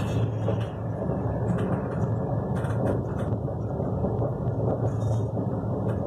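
Steady low rumble of an express train's passenger coach running along the track, heard from inside the carriage.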